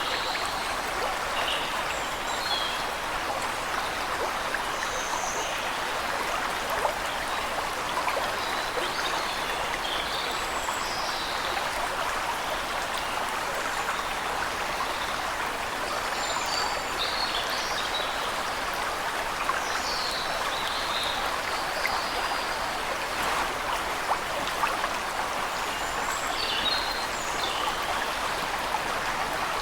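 Waterfall: steady rushing water, with small birds chirping briefly every few seconds above it.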